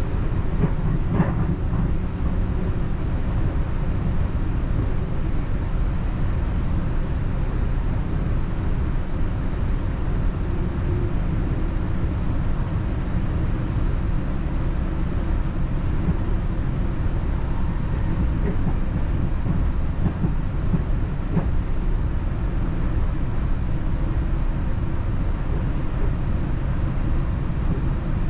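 Northstar commuter train running along the track: a steady low rumble with a couple of faint knocks, one about a second in and one a little past twenty seconds.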